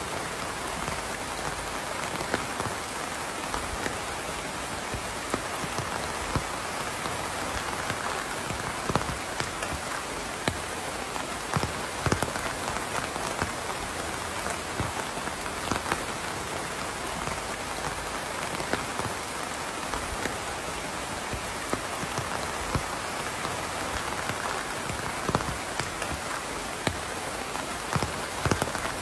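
Steady rain falling, an even hiss with many close, sharp drops striking a surface.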